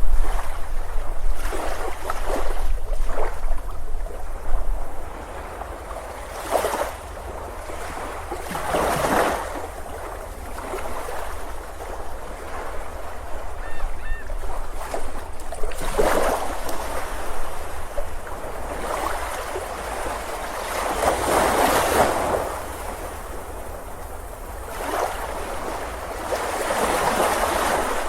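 Ocean waves breaking and washing up a beach, the surf surging and falling away every few seconds, over a steady low rumble.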